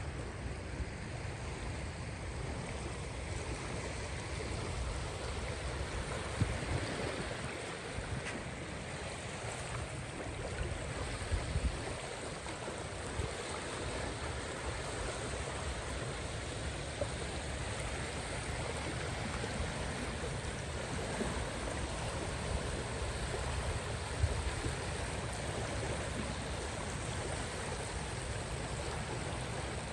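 Caspian Sea waves washing on the shore: a steady rush of surf with a few brief louder splashes.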